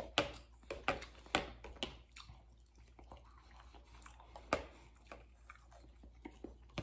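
A man chewing a mouthful of omelette: soft, wet mouth sounds with scattered small clicks, most of them in the first two seconds and one more about four and a half seconds in.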